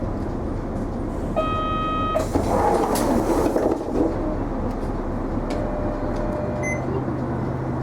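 Interior of an Isuzu Erga non-step city bus standing at a stop with its diesel engine idling. A single electronic beep sounds about a second and a half in, followed by a short rush of noise, and the low engine hum shifts in pitch near the end.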